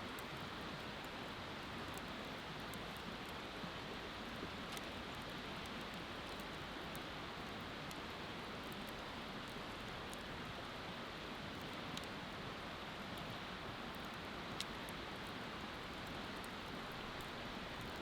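Wood fire crackling with scattered sharp pops, a few louder ones in the second half, over the steady rushing of a river.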